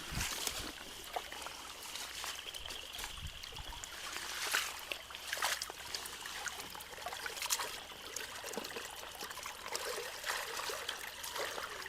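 Water trickling and running through a roadside culvert as it is cleared of leaves and debris, with scattered small splashes and clicks: backed-up floodwater draining away once the blockage is opened.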